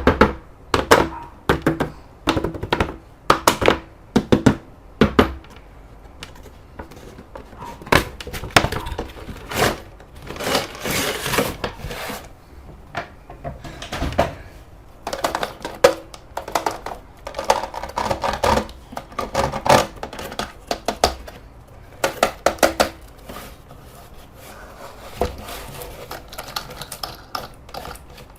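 Irregular clicks, taps and knocks with short rustles: a plastic toy RC car and its packaging being handled and unboxed.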